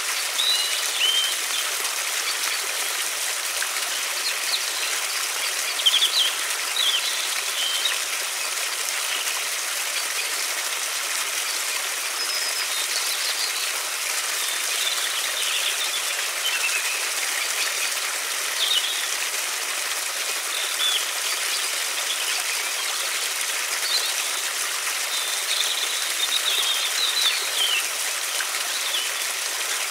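Steady rush of a flowing river, with small birds chirping in short calls scattered throughout.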